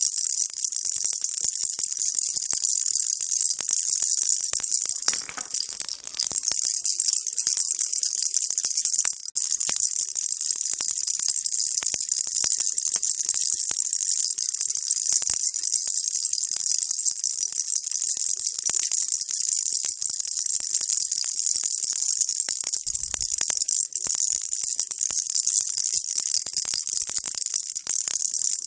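Baby rattle shaken continuously, a dense, high, steady rattling with brief dips about five and nine seconds in.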